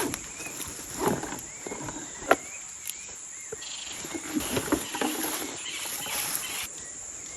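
Dry leaf litter rustling and twigs snapping and cracking underfoot and in hand while dead branches are gathered for firewood, one sharp snap about two seconds in. A steady high-pitched insect drone runs behind.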